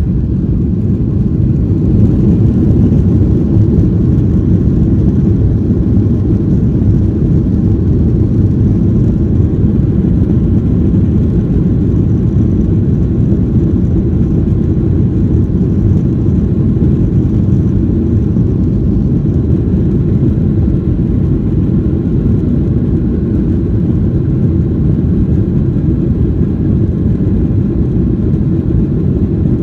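Cabin noise inside a Boeing 737-800 near the wing: a loud, steady low rumble of its CFM56 jet engines and airflow, rising a little about two seconds in.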